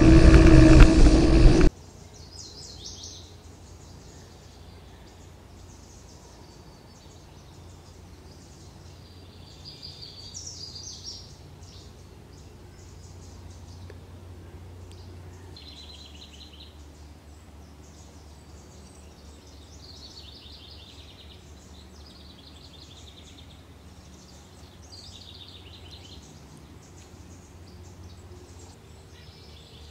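A loud rush of wind and riding noise cuts off abruptly under two seconds in. After that comes quiet outdoor ambience with birds calling again and again and a faint low hum underneath.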